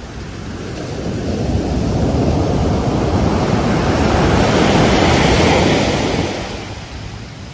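Ocean wave rushing onto the beach: the surf swells over a couple of seconds, holds loud for a few seconds, then drops away near the end.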